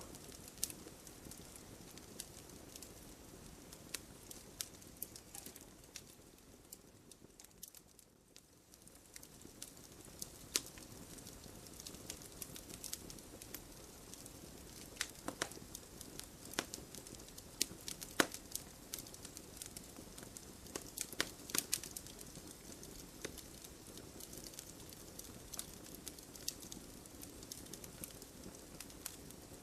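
Wood campfire burning, crackling with irregular sharp pops over a steady low rush of flame. It dips briefly quieter about eight seconds in, and a flurry of louder pops comes between about 15 and 22 seconds.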